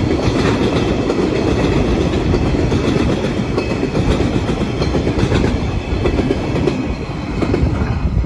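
Empty freight wagons of a diesel-hauled log train rolling past at close range: a steady rumble of wheels on rail, with a clickety-clack as the wheels cross the rail joints.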